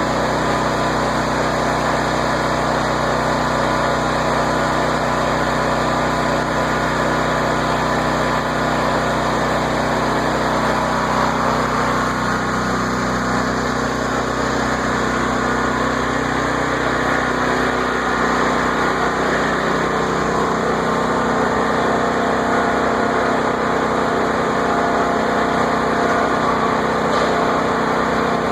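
A motor vehicle's engine running steadily, its hum shifting in pitch for a few seconds around the middle.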